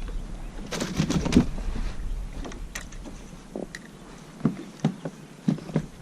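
Handling noises on a kayak: a series of sharp knocks and clicks, a cluster about a second in and scattered ones after, over a low rumble that fades away midway.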